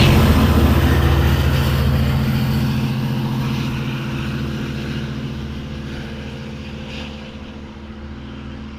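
Twin EMD DM30AC diesel locomotives accelerating a passenger train away under power, a steady engine drone that fades as the train pulls off.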